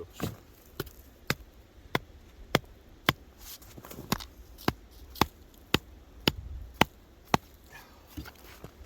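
Repeated sharp strikes at the bottom of a beaver run, gouging a hole for the trap stick: about fourteen evenly spaced knocks, a little under two a second.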